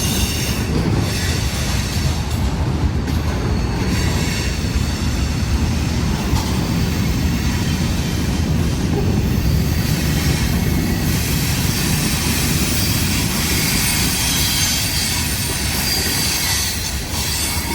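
Freight train of empty dumpster cars rolling steadily past: a continuous rumble of steel wheels on rail with a high hiss of wheel noise on top.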